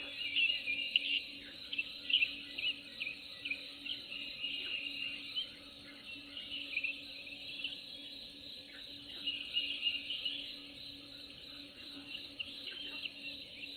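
Nature ambience: a dense, continuous chorus of high-pitched wildlife chirping, over a faint steady low hum.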